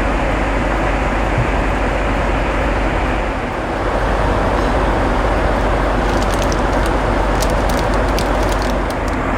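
Steady, loud rushing roar of a jet airliner heard from inside the cabin, with a few faint light clicks in the second half.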